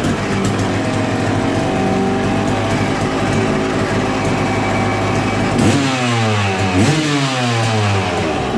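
Dirt bike engine running at speed, then revving up and down several times in the last few seconds.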